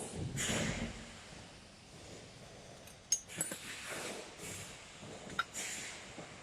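Breaths close to the microphone, soft and noisy, the strongest about half a second in, with a few sharp metallic clicks from small parts and tools being handled during assembly.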